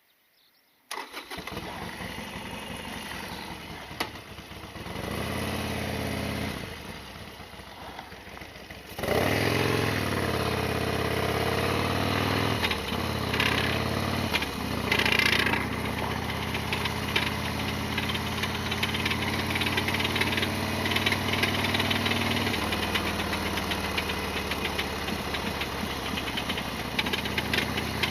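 Harley-Davidson XL1200R Sportster's 1200 cc air-cooled V-twin running, starting about a second in, then much louder about nine seconds in with the pitch rising and falling before settling into a steady run. The engine is rattly and noisy, with a loud abnormal mechanical noise.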